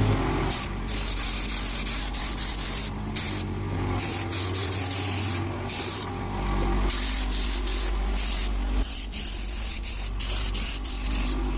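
Spray gun hissing in a run of bursts with short breaks between them, over a steady low hum.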